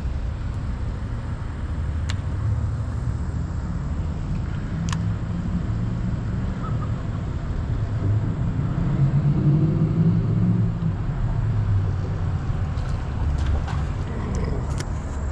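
Steady low rumble of road traffic, swelling as a vehicle passes about two-thirds of the way through, with two faint clicks early on.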